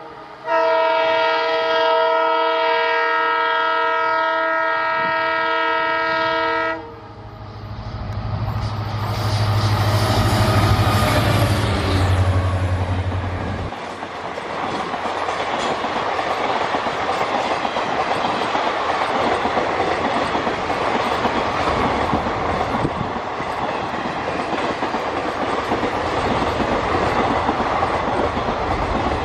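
EMD WDP-4 diesel locomotive sounding its multi-tone air horn in one long blast of about six seconds, then passing with its two-stroke V16 engine giving a deep steady hum. From about fourteen seconds in, the express coaches roll by with steady wheel clatter on the rails.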